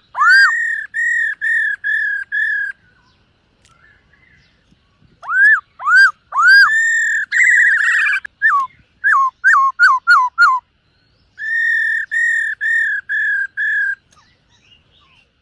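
Black-throated laughingthrush singing loud, clear whistled phrases in three bursts with short pauses between. Each burst opens with arched up-and-down notes and runs into a string of evenly repeated notes; the middle burst adds a brief buzzy trill and a quick series of falling notes.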